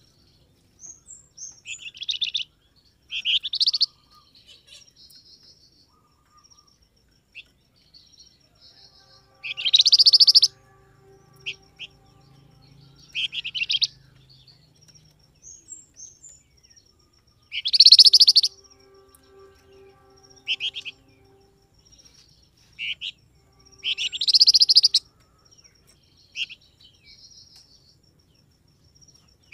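Calls of a songbird known in Indonesian bird-keeping as 'flamboyan', played as a lure call: short, bright, chirping phrases repeated every one to four seconds, with three louder, longer bursts. A faint, thin, steady high tone runs underneath.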